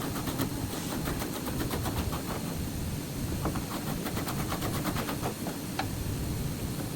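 A machine rattling steadily with rapid, even strokes, many a second, over a low rumble.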